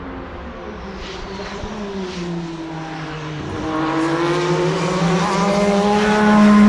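Formula One car's engine running on the adjacent circuit. Its note dips, then climbs as it grows louder toward the end.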